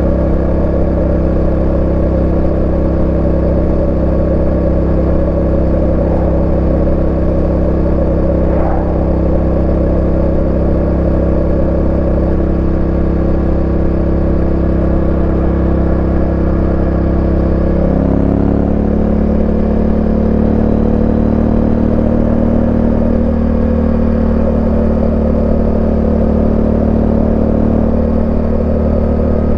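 Yamaha Ténéré 700's parallel-twin engine running at steady speed under way. About two-thirds of the way through its pitch shifts, then slowly rises.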